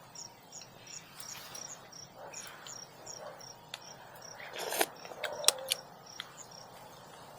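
An insect chirps steadily in short high pulses, about three a second, with a few light clicks and knocks around the middle.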